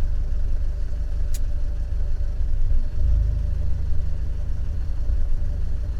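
Fiat 124 Spider's 1.4-litre MultiAir turbo four-cylinder idling with an uneven low rumble that swells heavier for a moment about halfway through. This is the rough idle the owner traces to an intermittent cylinder 4 misfire.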